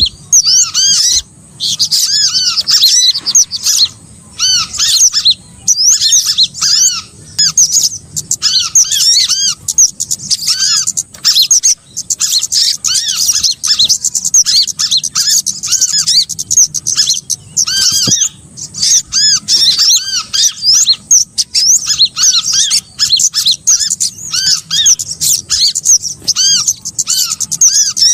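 Small songbirds calling in a dense, continuous stream of short, sharp, arched chirps: a bird-lure recording of the kind used to call small birds in for trapping.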